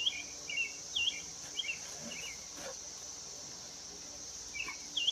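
Steady high-pitched insect chorus, with a songbird singing quick phrases of short chirping notes in the first couple of seconds and again near the end.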